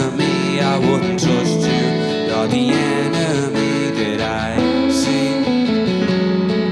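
Acoustic guitar strumming in a live band performance.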